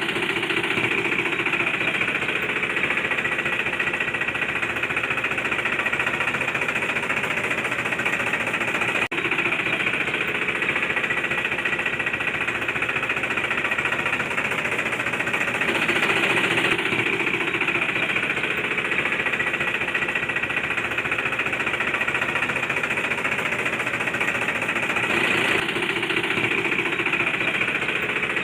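Small DC hobby motor of a DIY mini tractor water tanker model running steadily, with a momentary break about nine seconds in.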